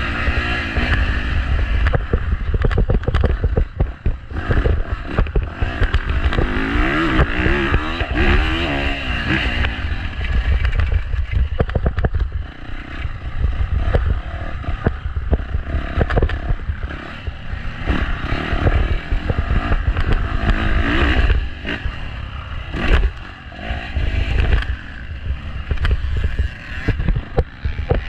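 Dirt bike engine revving up and down repeatedly, with heavy wind noise on the microphone.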